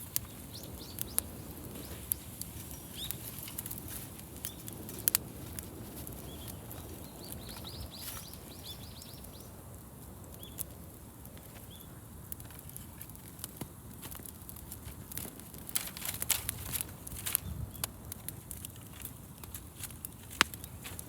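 Wood fire crackling, with frequent irregular sharp pops over a low steady rumble. Small birds chirp throughout, with a quick run of chirps about eight seconds in.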